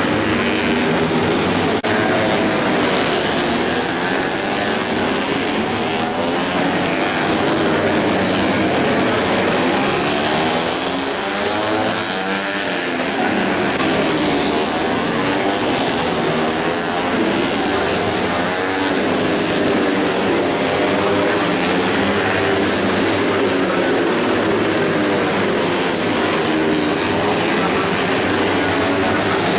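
Racing motorcycle engines revving hard as bikes pass one after another, their pitches rising and falling as they go by, with a close cluster of bikes passing about twelve seconds in.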